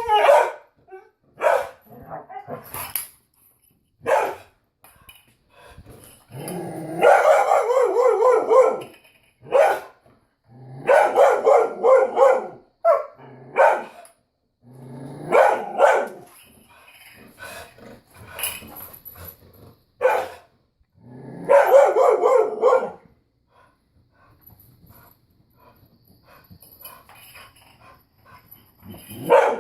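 A dog barking excitedly, with single barks and longer runs of barks lasting a second or two, going quiet for the last several seconds.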